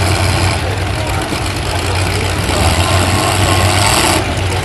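Demolition derby trucks' engines running at low revs, a loud steady drone with a constant low hum; a hissing layer on top cuts off suddenly about four seconds in.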